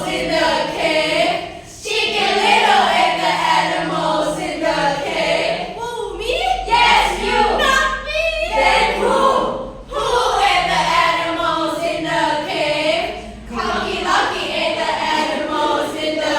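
A group of children singing together, in phrases broken by short pauses.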